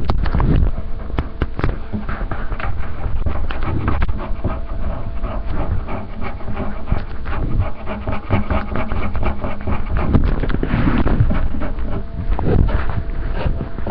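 Someone scratching at the underside of a table: a continuous run of quick, rasping scratches.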